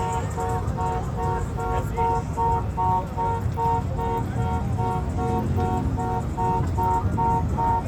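A car horn sounding in rapid, evenly repeated beeps, about three a second, over a steady low rumble.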